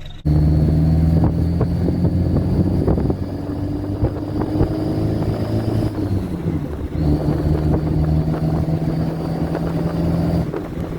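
Diesel engine running with a thin, steady high whistle from a bolt-on exhaust-tip turbo whistle. About six seconds in, the engine note dips and the whistle drops out for about a second, then comes back with the engine.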